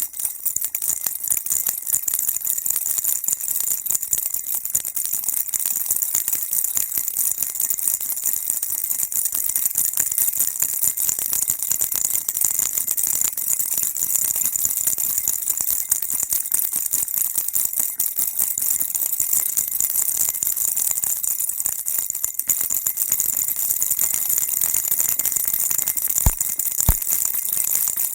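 Baby rattle shaken continuously, a dense, even, high-pitched rattling. Two brief knocks come near the end.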